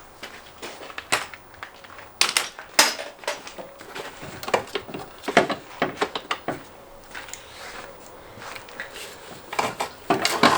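Irregular metallic clanks, clinks and knocks of tools and engine parts being worked loose in a car's engine bay, with louder clusters of knocks about two seconds in, around the middle and near the end.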